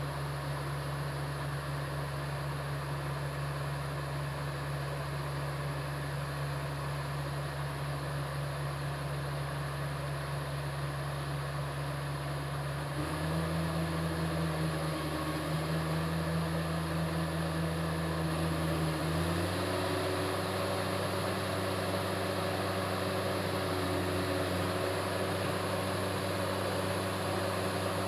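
Diesel engine of a Komatsu D68ESS crawler bulldozer running steadily. Its engine speed steps up about halfway through and again a few seconds later, then holds.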